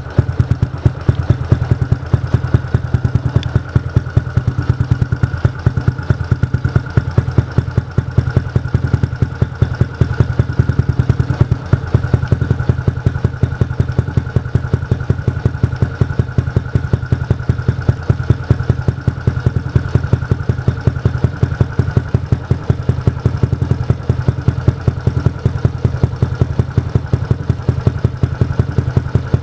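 Yamaha Jupiter MX 135's single-cylinder four-stroke engine idling steadily through an aftermarket R9 exhaust silencer, a fast, even run of exhaust pulses with a deep low note.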